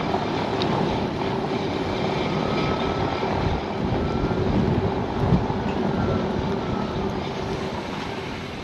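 Road and tyre noise of a moving Tesla Model S P85D, with a faint steady hum, gradually getting quieter toward the end.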